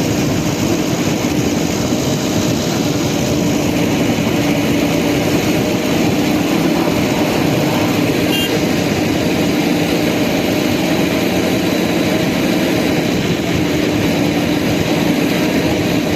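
Steady engine-like drone with a constant hum.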